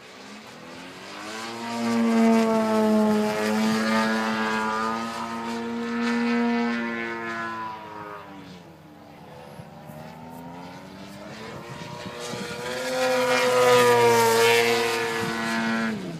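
Large radio-controlled model airplane flying two low passes, its engine and propeller buzzing loud as it comes by, with the pitch dropping as it goes away each time.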